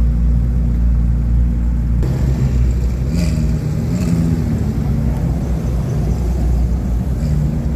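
Sports car engine running with a deep, steady rumble. About two seconds in, the sound shifts and the engine note wavers up and down.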